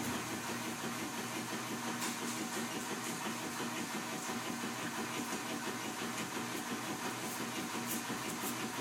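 Washing machine running, a steady mechanical hum with a slight regular pulse.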